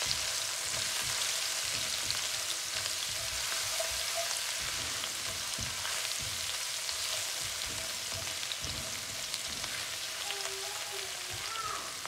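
Ginger-garlic paste sizzling as it fries in hot olive oil in a non-stick wok, being lightly browned. A silicone spatula stirs it, with soft irregular scrapes and taps against the pan over the steady sizzle.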